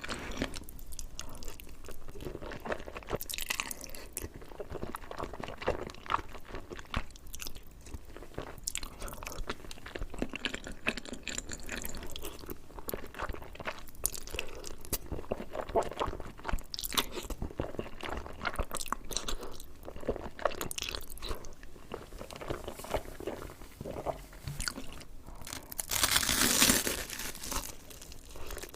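Close-miked eating: steady chewing with wet clicks and crunchy crackles, and a louder crunchy bite near the end.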